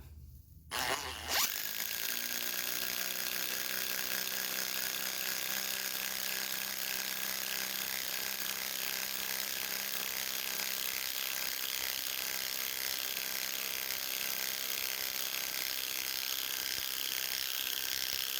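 Ryobi PBLID02 brushless impact driver, modified with a 1/2-inch anvil, hammering continuously at a steady pitch as it drives a 5/16-inch, 5-inch lag bolt into wood. It spins up briefly about a second in, then impacts without letting up. The run ends with the lag bolt snapping.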